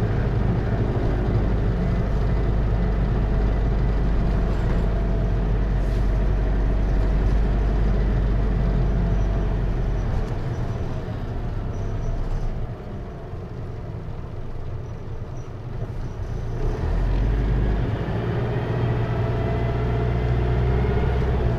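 Hino Liesse microbus's J05C four-cylinder diesel with automatic transmission, heard from inside the cabin. The engine runs under way, eases off about halfway and goes quieter for a few seconds, then picks up again with a rising pitch as the bus accelerates.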